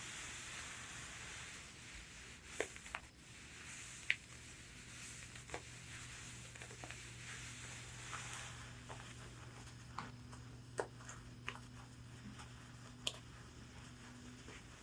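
Long fingernails scratching across a corset's fabric and tapping on it in scattered single sharp taps. The scratching is a soft hiss at the start and again in the middle, with about ten taps spread through the rest.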